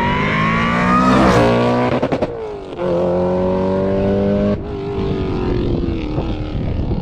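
Supercharged 4.2-litre V8 of an Audi RS4 B7 running hard through a catless exhaust: the note rises for about a second, drops at a gear change, gives a few sharp cracks about two seconds in, pulls again, then drops suddenly a little past four and a half seconds and falls away.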